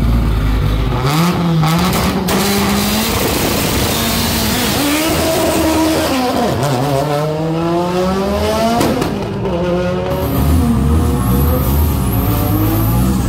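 Mitsubishi Lancer drag car launching down the strip: its engine revs up through several gear changes, the pitch climbing and dropping back at each shift, with a few sharp cracks around the launch. Near the end a second car's engine runs steadily at the start line.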